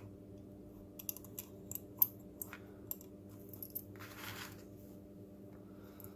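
Light clicks and taps of small plastic robot body parts being handled and screwed together, with a short scrape about four seconds in.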